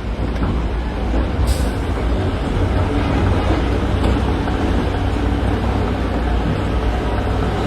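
Heavy diesel earthmoving machinery running under load with a steady, deep rumble, and a short hiss about a second and a half in.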